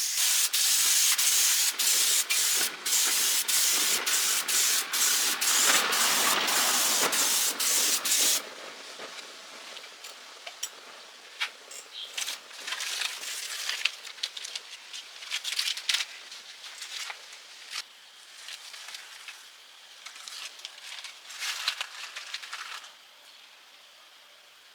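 Air spray gun hissing loudly in short trigger pulses with brief breaks, stopping suddenly about eight seconds in; then quieter, scattered short bursts of spray.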